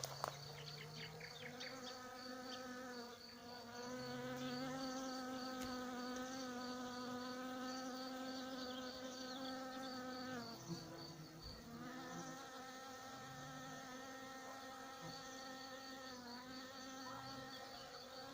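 Bees buzzing in flight, a steady droning hum that breaks off about ten seconds in and resumes a second or so later. Behind it runs a high, evenly pulsed chirping from another insect.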